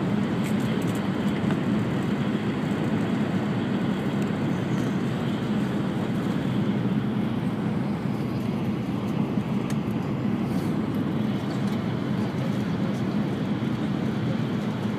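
Steady low rumble of an E5 series Shinkansen running at speed, heard from inside the passenger car.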